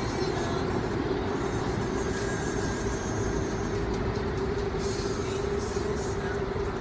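Train running across a long railway bridge: a steady, continuous running noise with a constant hum.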